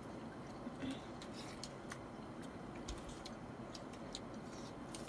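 People eating momos by hand: quiet chewing with scattered small mouth clicks and smacks.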